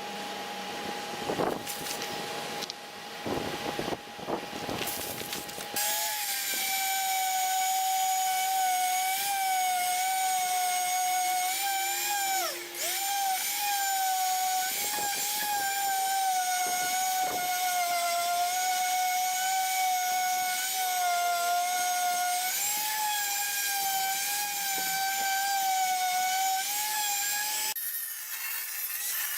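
A handheld power sander starts about six seconds in and runs with a high steady whine that wavers slightly and dips briefly once under load, working down bodywork, then stops near the end. Before it starts there are a few knocks and scrapes over a faint steady hum.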